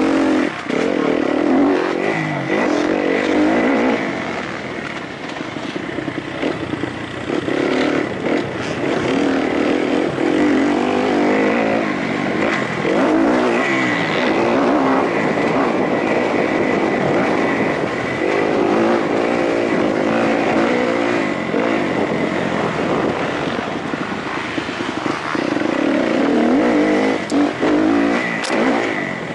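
Kawasaki KXF four-stroke single-cylinder motocross bike engine, heard from on the bike, revving hard and easing off again and again as the rider accelerates, shifts and backs off over a rough dirt course.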